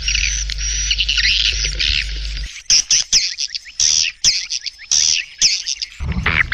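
Swiftlet calls, a dense high-pitched twittering chatter, from a lure recording made to call swiftlets to a nesting house. For the first couple of seconds it sits over a low steady hum; about midway it thins into separate quick chirps with short gaps, and near the end the dense chatter and hum return.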